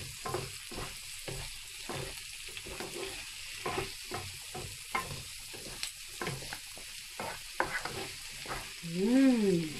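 Diced potatoes and red pepper sizzling in a frying pan while two wooden spatulas stir and toss them, with frequent irregular clicks and scrapes of wood against the pan. A voice sounds briefly near the end.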